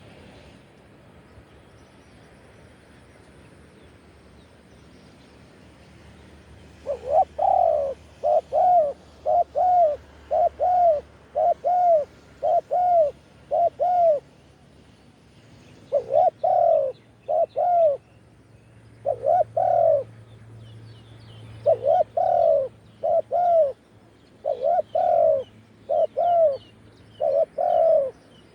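Spotted dove cooing: starting about seven seconds in, a long string of short, arched coos, about two a second, in runs broken by brief pauses.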